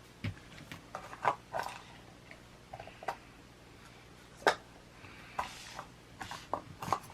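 Scattered light clicks and knocks of plastic Play-Doh tools and molds being handled, about eight sharp ones, the loudest about four and a half seconds in.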